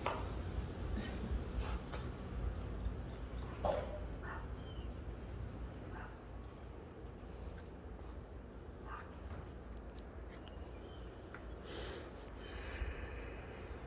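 Insects trilling steadily in one unbroken high-pitched drone, with a few faint short calls here and there.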